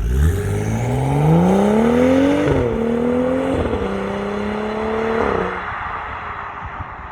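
BMW F30 engine and valved exhaust accelerating hard. The pitch climbs for about two and a half seconds, dips briefly twice, holds, then falls away and fades near the end.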